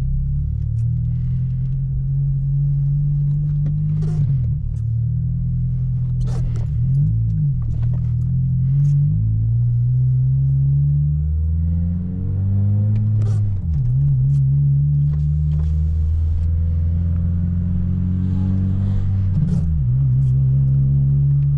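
Acura RSX's four-cylinder engine through a loud new custom exhaust, droning low while the car is driven. Its pitch climbs and falls several times, with sharp drops about 13 seconds in and again near 20 seconds, like gear changes.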